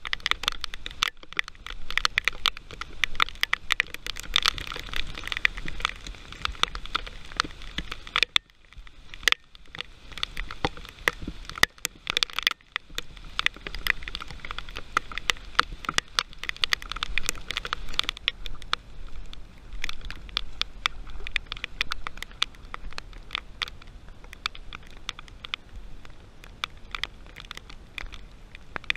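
Heavy rain falling, with raindrops striking the camera directly as a dense, irregular crackle of sharp ticks.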